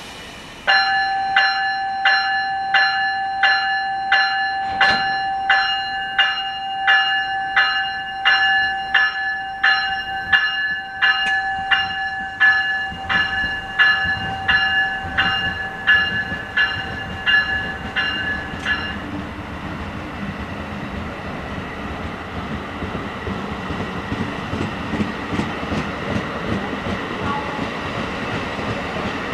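An NJ Transit double-deck commuter train's warning bell rings steadily about twice a second as the train departs, then stops after about 19 seconds. The train's wheels then rumble and clatter over the rail joints as the cars roll past, picking up speed.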